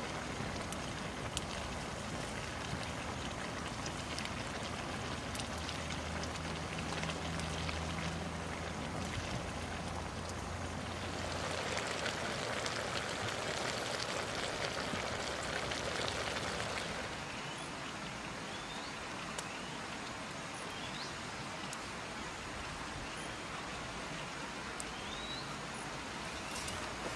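Mushrooms and mixed vegetables sizzling in a wok over a wood fire. It is a steady hiss that grows louder for a few seconds in the middle, with scattered small crackles.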